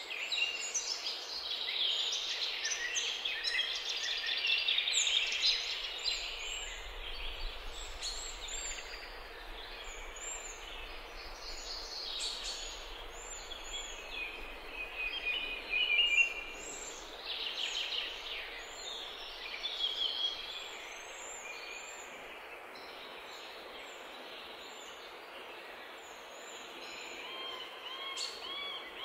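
Birds chirping: many short, high calls overlapping over a steady outdoor background, busiest in the first twenty seconds and thinning out after that.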